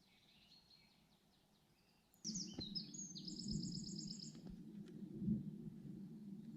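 Songbird singing: faint calls at first, then a clear trilling song of quick repeated high notes that lasts about two seconds. About two seconds in, a steady low rushing noise starts abruptly underneath and carries on.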